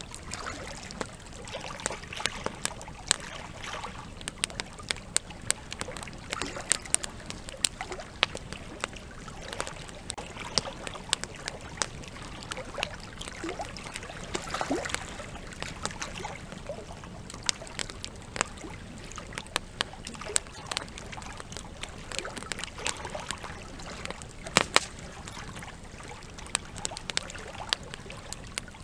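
Campfire crackling with frequent sharp, irregular pops over the steady rush of a flowing river.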